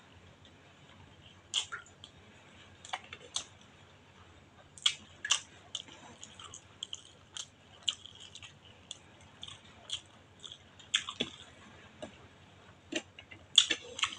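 Close-up eating sounds of a person chewing a mouthful of rice and fish: irregular short sharp mouth clicks and smacks, loudest in a cluster near the end.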